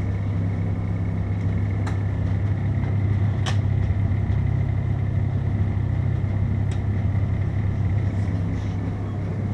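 Refrigeration compressors running with a steady, loud low hum, a few short sharp clicks over it about two, three and a half and almost seven seconds in.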